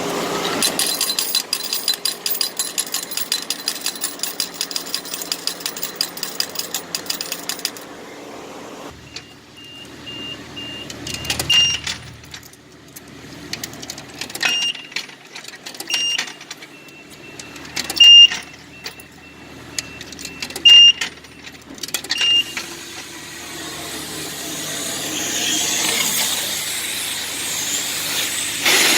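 Self-serve car wash change machine clattering out coins in a rapid run of clicks for about eight seconds. Later comes a series of sharp electronic beeps, one every one to three seconds, and a rising rush of noise near the end.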